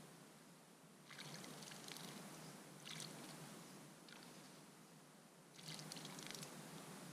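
A small bird bathing in a shallow bird bath, splashing in several short flurries: one about a second in, brief ones near three and four seconds, and a longer one near six seconds.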